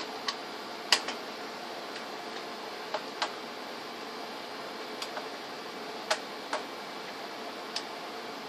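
Light clicks and taps of tools and laptop parts being handled, about ten at irregular intervals, the sharpest about a second in, over a steady background hiss.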